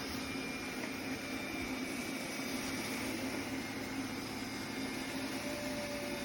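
Roborock Qrevo Curv robot vacuum and mop running, giving a steady motor and fan hum with a faint high whine. A short low tone comes in near the end.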